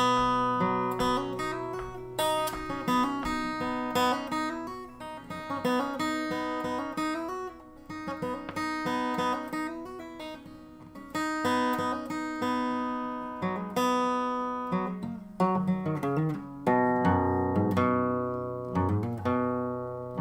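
Acoustic guitar playing a blues instrumental: picked notes and strummed chords over a low bass note.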